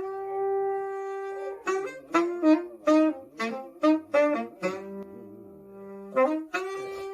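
Saxophone melody: a held note, then a quick run of about eight short, detached notes, then a long lower note and a few more notes near the end.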